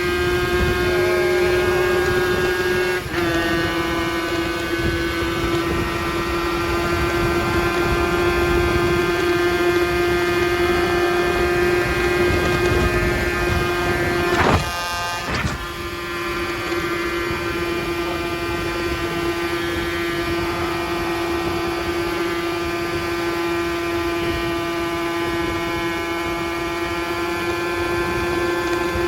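50cc two-stroke motorcycle engine held at steady high revs while riding. Its pitch drops slightly about three seconds in, and it breaks off briefly about halfway through before picking up again.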